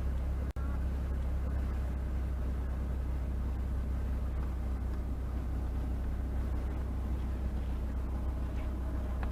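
Steady low rumble of a car's engine and road noise while driving, broken by a brief dropout about half a second in.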